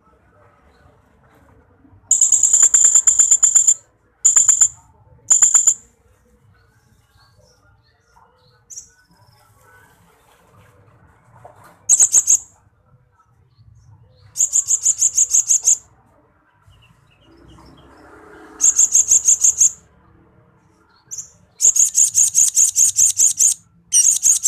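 Blue-crowned hanging parrot (srindit) singing in repeated bursts of very high, rapid, trilling notes, each burst lasting from a fraction of a second to about two seconds, with short pauses between.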